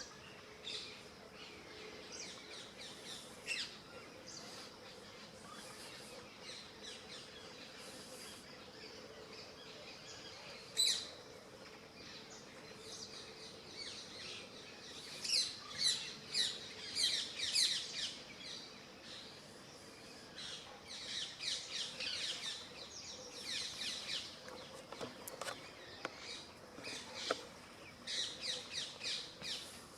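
Small birds chirping in quick runs of short high notes, busiest about halfway through and again near the end.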